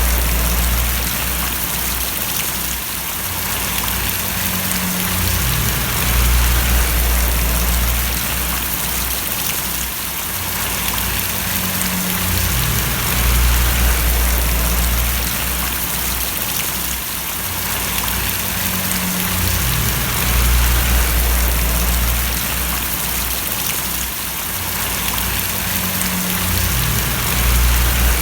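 Steady rain falling, an even hiss of drops, with a low rumble underneath that swells and eases every several seconds.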